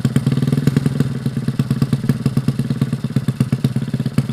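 A 115cc motorcycle engine idling steadily, its exhaust giving a rapid, even train of sharp pulses.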